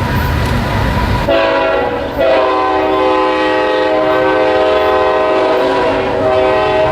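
Locomotive air horn sounding a chord of several steady tones: a short blast about a second in, then after a brief break a long held blast. A low train rumble comes before the horn.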